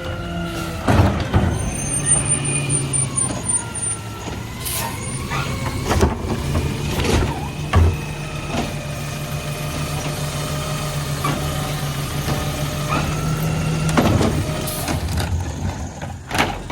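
Garbage truck running with its engine held at a steady drone while the packer works, with repeated knocks and clanks of refuse and metal. The drone stops about fourteen seconds in, followed by a brief burst of noise.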